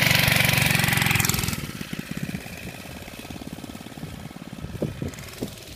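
4 hp Tecumseh single-cylinder engine of a 1970s Rupp minibike running loud, then dropping to a much quieter, steady running about a second and a half in. A few faint knocks come near the end.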